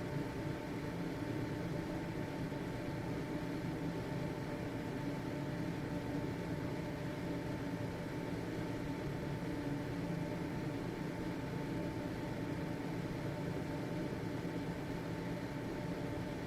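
Household ventilation fan running steadily: an even whoosh of moving air with a faint constant motor hum.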